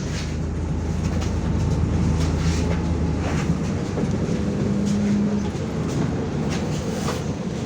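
MAZ-105 articulated city bus's diesel engine running, heard from inside the passenger cabin as a steady low drone whose pitch shifts about four to five seconds in, with light clicks and rattles from the body.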